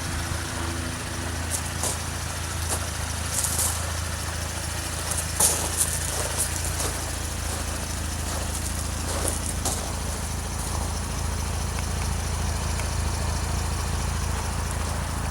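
Chevrolet Camaro's 3.6-litre V6 idling steadily through MRT V2 axle-back mufflers, with a few light clicks and scuffs over it.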